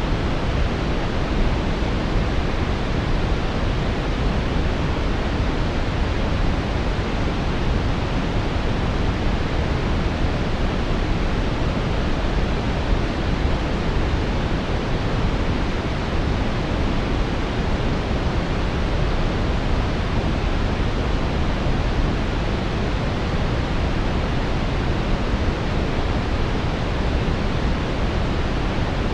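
Steady synthetic brown noise: an even, deep hiss, strongest in the low end and rolling off in the highs, without change or interruption.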